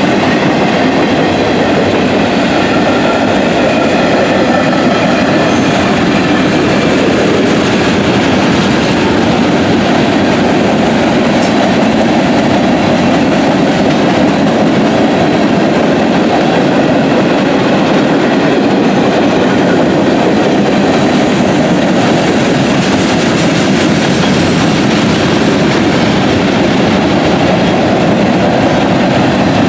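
Train cars rolling past, a steady loud rumble of steel wheels on rail with clickety-clack over the rail joints.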